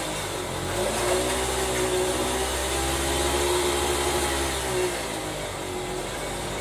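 A small motor running steadily, its pitch rising slightly about a second in and easing down near the end.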